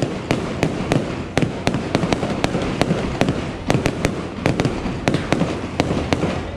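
Aerial firework shells bursting in quick succession: a rapid, irregular run of many sharp bangs and cracks over a continuous rumble.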